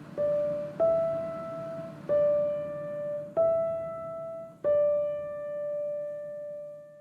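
Background music: a slow piano melody of single struck notes, each ringing and decaying, the last one held and fading out near the end.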